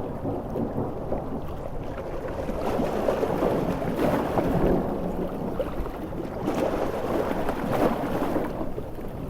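Large sea waves surging and breaking on a shore in a storm, a continuous rushing wash that swells about three seconds in and again near the end.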